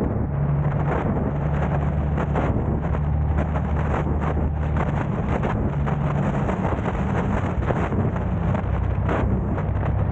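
Steady drone of a car driving, a low engine and road hum, with wind buffeting the microphone in frequent brief gusts.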